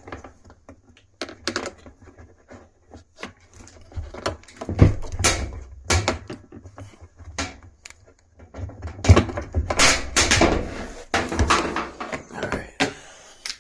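Irregular knocks, clicks and scrapes of hands working inside a top-loading washer's cabinet to unclip and pull out the drum's suspension springs, over a low rumble. The knocks come in two busier, louder clusters, one a little before the middle and one later on.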